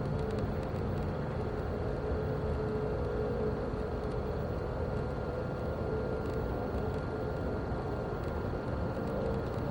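Steady vehicle rumble with a constant droning hum, unchanging throughout.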